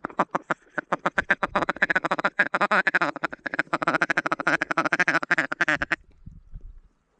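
A rapid, unbroken run of Canada goose honks and clucks, several notes a second, stopping abruptly about six seconds in.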